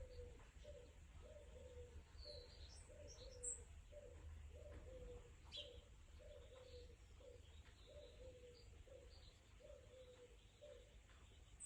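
A dove cooing over and over, each call a short note followed by a longer falling one, about once a second, with small birds chirping faintly.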